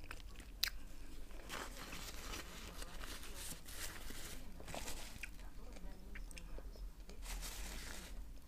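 Faint chewing of a bite of shawarma wrapped in flatbread, with soft crunches and a few sharp mouth clicks; the sharpest click comes about half a second in.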